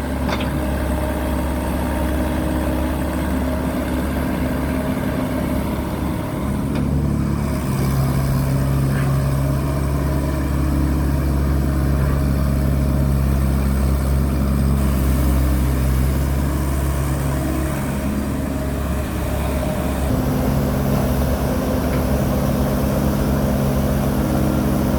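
Heavy diesel engine running steadily. Its note changes about 7 seconds in and again about 20 seconds in, as the load on it changes.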